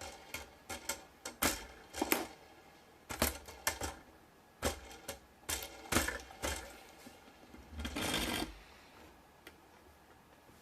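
Irregular plastic clicks and light knocks from a LEGO helicopter model being handled, with a short scraping rattle about eight seconds in.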